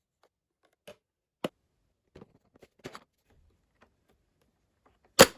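Light plastic clicks and taps from handling the robot vacuum's dust tray and filter, scattered and irregular, with one sharp, much louder click near the end.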